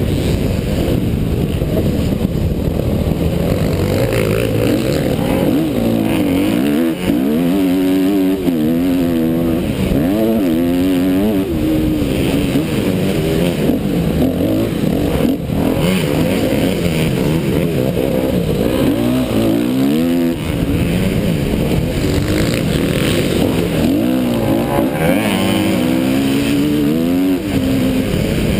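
Motocross dirt bike engine heard up close from an onboard camera, revving up and dropping back over and over as the rider accelerates, shifts and rolls off through the course.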